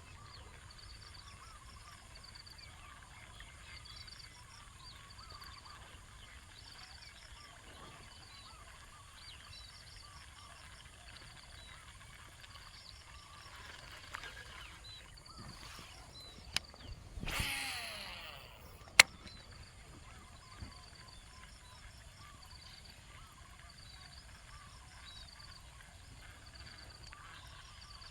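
Quiet outdoor ambience: a high chirping repeated every second or two, with faint bird calls. About 17 seconds in comes a short whoosh between two sharp clicks.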